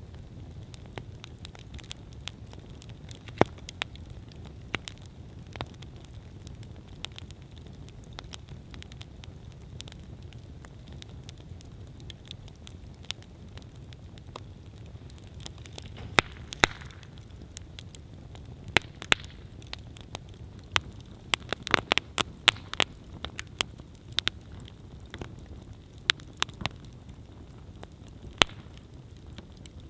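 Wood campfire burning: a steady low rumble of flames with sharp, irregular crackles and pops that come thicker about two thirds of the way through, and a brief hiss about halfway.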